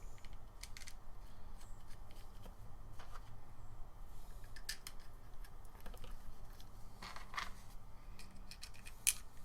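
Scattered light clicks and taps of small parts being handled and fitted together while a trimmer attachment is reassembled, a sharper click near the end, over a low steady hum.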